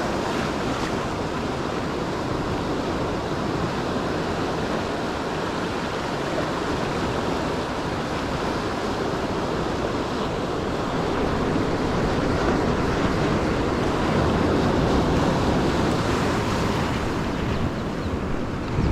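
Ocean surf washing onto the shore, a steady rush that swells louder for a few seconds in the second half, with wind buffeting the microphone.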